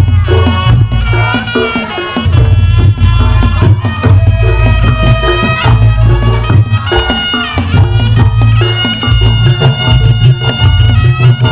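Reog Ponorogo music: a slompret (reed shawm) plays a sustained, reedy melody that bends in pitch in places, over loud drums and a heavy bass.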